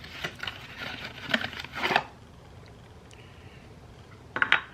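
Handling noises of clattering and scraping: a run of short knocks and scrapes in the first two seconds, then a brief burst near the end.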